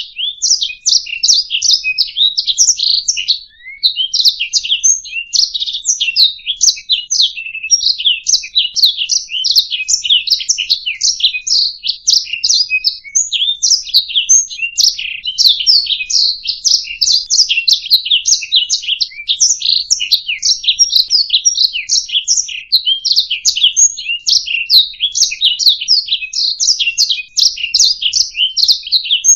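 Domestic canary singing a long continuous song of fast high trills and chirps, with barely a break.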